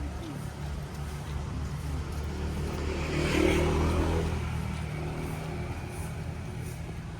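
A motor vehicle's engine running nearby with a steady low hum. It grows louder about three seconds in as it passes, then fades away.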